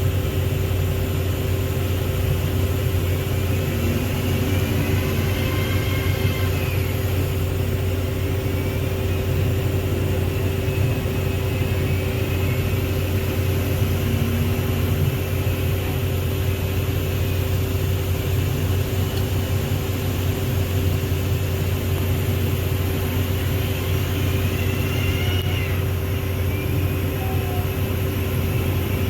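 Heavy diesel engine running steadily at an even speed, a constant low drone. Faint high rising-and-falling whistles come in a few seconds in and again near the end.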